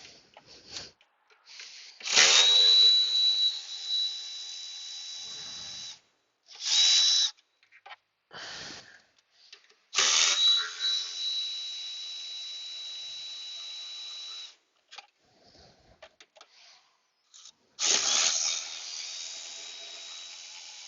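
Cordless power driver with a socket spinning out 10 mm fasteners: three long runs of a high motor whine, each loudest at the start, with two short blips in between.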